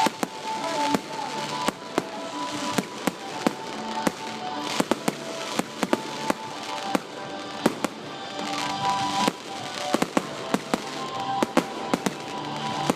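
Aerial fireworks bursting in quick, irregular succession: many sharp bangs and pops, at times several a second, with music playing steadily underneath.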